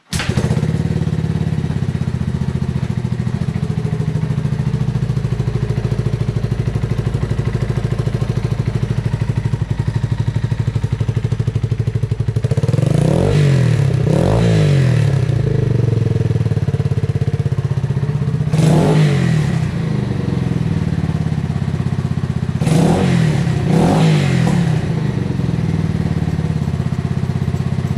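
Yamaha TW225's air-cooled single-cylinder four-stroke engine, breathing through a Supertrapp muffler, fires up and idles steadily, with short throttle blips twice, then once, then twice more. The engine is in good health: a stable idle with no abnormal noises.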